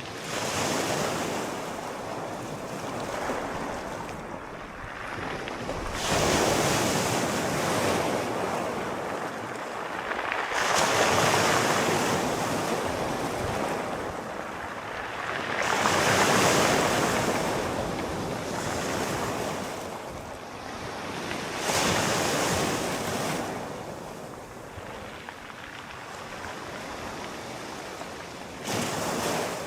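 Sea waves rolling in and washing on the shore, a steady surf that swells and fades every five seconds or so.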